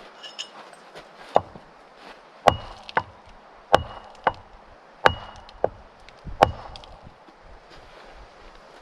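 Axe chopping wood for a campfire: five heavy strikes about every 1.3 s, with lighter knocks between them.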